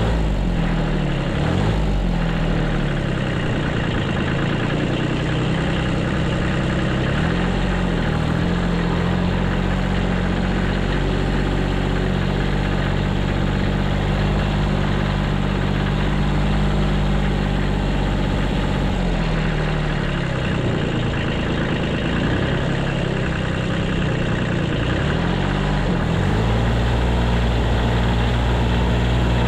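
Small 14 hp diesel engine of a 1978 Kubota B6100 compact tractor running steadily while plowing snow, its engine speed dipping and recovering several times as it works.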